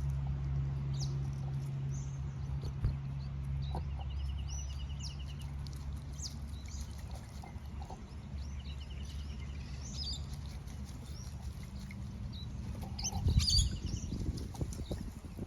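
Birds calling: scattered short high chirps and a couple of buzzy, rattling trills, over a steady low hum. A louder thump comes near the end.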